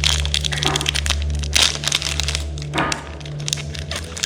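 Magic: The Gathering cards being flipped and dealt onto piles: a quick run of crisp flicks, snaps and taps of card stock, with a few louder rustles of cards sliding together.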